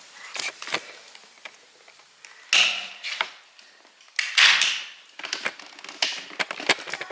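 Scuffs, knocks and clicks of someone climbing in through a window opening and handling cameras. There are two louder scrapes, about two and a half and four and a half seconds in.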